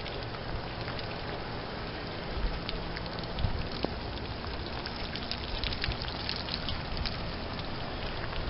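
Outdoor heat pump units running in heat mode: a steady rush of fan air with a low hum that fades about three and a half seconds in, and scattered light crackling ticks throughout.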